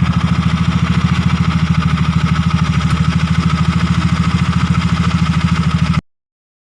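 Fuel-injected motorcycle engine idling with a steady, even pulse. It cuts off suddenly about six seconds in.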